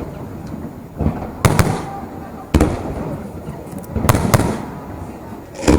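Aerial fireworks shells bursting: about five loud bangs at irregular intervals of one to one and a half seconds, each trailing off.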